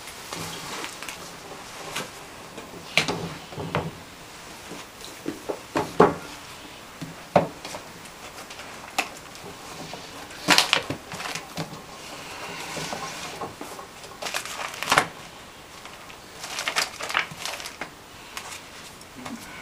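Irregular knocks, clicks and rustles of objects being handled in a small room, over a steady background hiss; the sharpest knocks fall about 6 and 7 seconds in, with a cluster around 10 to 11 seconds and another near 15 seconds.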